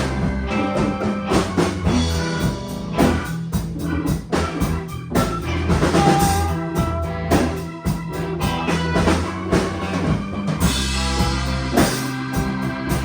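A band playing a song: a drum kit keeping a steady beat over held bass notes and pitched keyboard or guitar lines.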